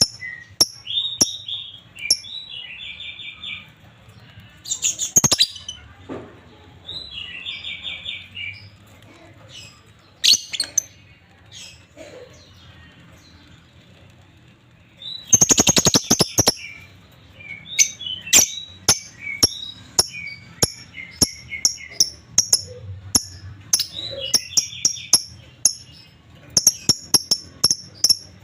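Lovebirds chirping: a string of short, sharp high chirps with brief chattering trills between them. A louder harsh burst comes about five seconds in, and a longer one just past the middle.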